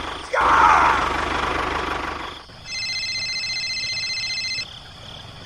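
A small motor of a DIY model tractor running steadily, with a sudden louder change about a third of a second in, fading out after about two seconds. It is followed by a steady, high electronic tone held for about two seconds.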